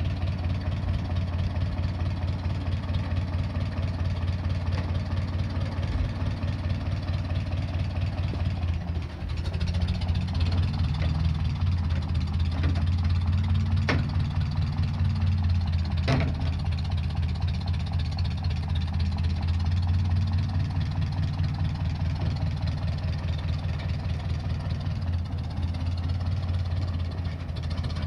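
Tractor engine running steadily. About nine seconds in it runs a little higher and louder for roughly ten seconds, then settles back, with two sharp clicks near the middle.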